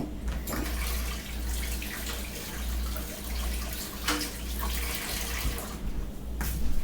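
Water running steadily, as from a kitchen tap, stopping shortly before the end.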